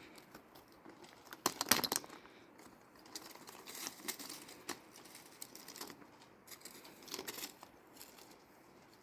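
Irregular crinkling and rustling with scattered sharp clicks, and a dense cluster of clicks about a second and a half in.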